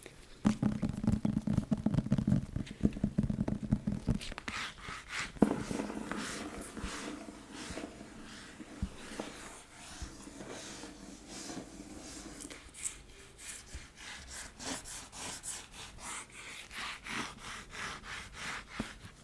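Fast ASMR tapping and scratching: a dense run of small taps and rubbing strokes with the fingers. It is heavier and fuller in the first few seconds, then lighter scratching and tapping.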